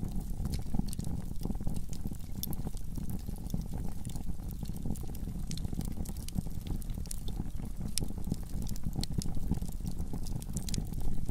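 Wood fire burning in a fireplace: a steady low rushing with frequent sharp crackles and pops from the burning logs.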